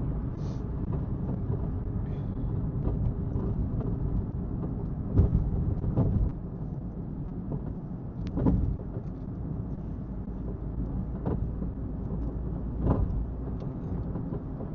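Car driving along a road: a steady low rumble of engine and tyres, with a few short thumps, about five, eight and a half and thirteen seconds in.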